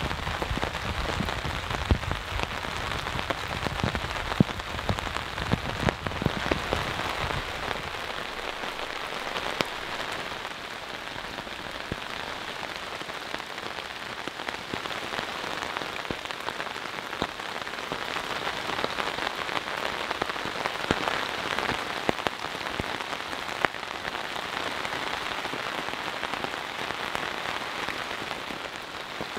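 Steady rain falling, an even hiss dotted with many individual drops heard as sharp ticks. A deeper rumble under it fades out about eight seconds in.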